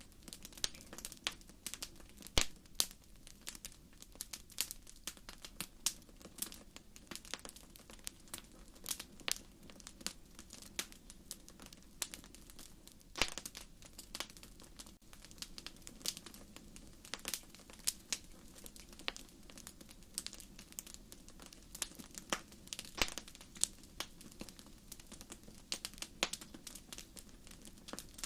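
Wood fire crackling in a fireplace: irregular sharp pops and snaps, a few much louder than the rest, over a steady low rush of the flames.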